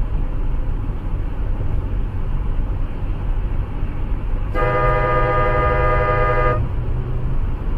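A car horn sounds one steady blast of about two seconds, starting about four and a half seconds in, over a continuous low vehicle rumble.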